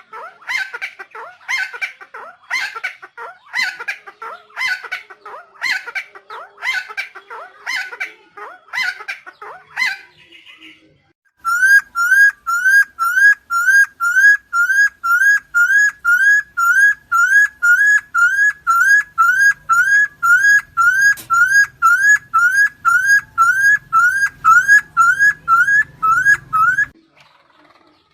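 Helmeted friarbird calling: a loud run of harsh, repeated calls at about one and a half a second. After a short pause comes a long, very even series of rising whistled notes, about two a second, which stops shortly before the end.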